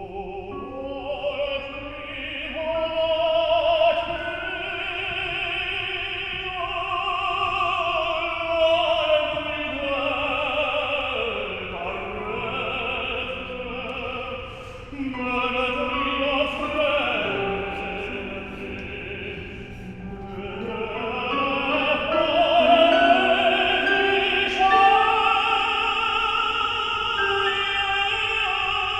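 Operatic singing: a classically trained voice holding long, slowly moving notes with a wide vibrato.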